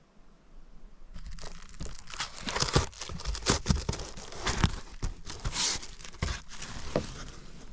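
Crinkling and rustling, as of plastic or packaging being handled, starting about a second in and going on with frequent sharp crackles.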